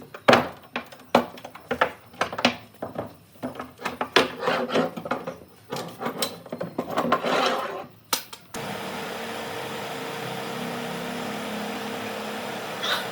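Hand work on wood: irregular knocks, taps and scraping strokes. About two-thirds of the way through this stops abruptly and a steady machine hum with a single held tone takes over.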